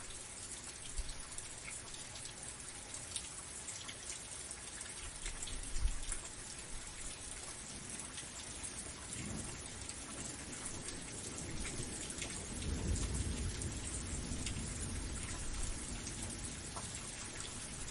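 Steady rain falling, with fine drop patter, and a low rumble of distant thunder rising about nine seconds in and again, louder, from about twelve to fifteen seconds.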